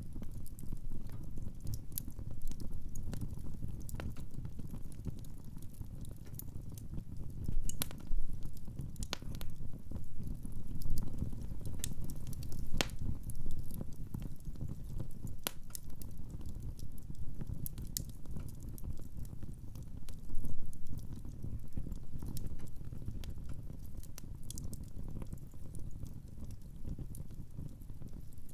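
Wood fire crackling in a fireplace: a steady low rumble of burning logs with scattered sharp pops and snaps, a few louder ones about 8, 11 and 20 seconds in.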